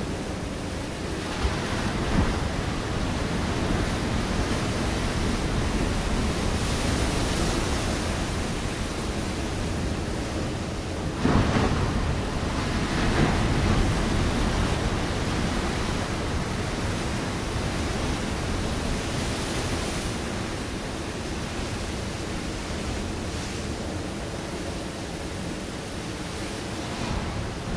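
Ocean waves breaking against a rocky shore: a continuous wash of surf that swells and falls, with the loudest wave crashing about eleven seconds in. Some wind noise on the microphone.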